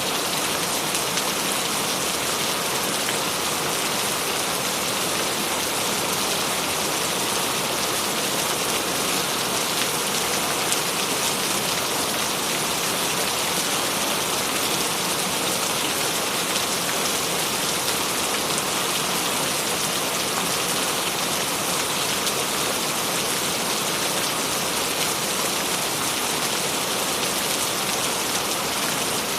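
Steady rain falling: an even, continuous hiss of many drops landing, with no change in strength.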